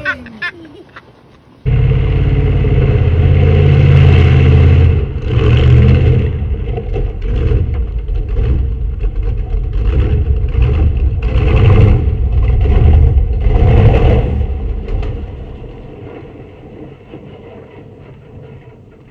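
Homemade monster truck's engine running and revving as the truck drives past. It comes in suddenly a little under two seconds in, rises and falls several times, and fades away over the last few seconds.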